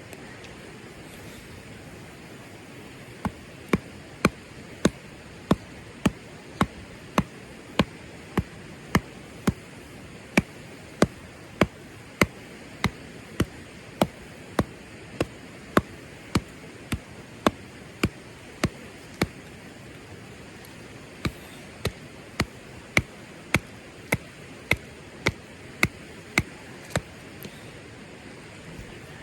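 A long run of sharp, evenly spaced knocks, a little under two a second, over a steady hiss; the knocking stops briefly and resumes for a second run.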